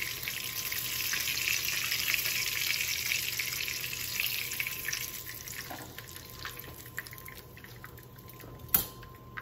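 Breaded chicken strips shallow-frying in hot oil in a skillet: a steady sizzling hiss that fades after about five seconds as the pan empties, with a sharp click near the end.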